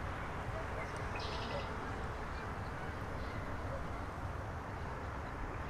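Faint bird calls over steady low outdoor background noise, with a short burst of high chirps about a second in and a few weaker calls later.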